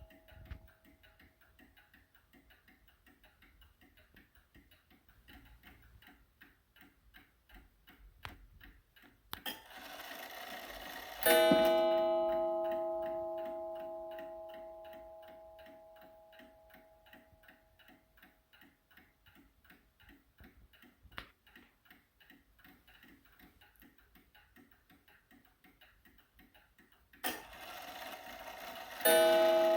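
Seth Thomas beehive mantel clock ticking steadily; about ten seconds in the strike train whirs and the clock strikes once, the note ringing out and fading over several seconds. Near the end the strike train whirs again and another strike rings out.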